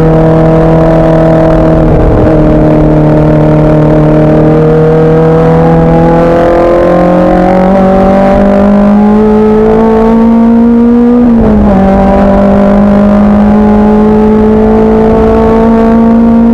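Race car engine running hard under load, its pitch climbing slowly through the gears, with a brief dip in pitch about two-thirds of the way through.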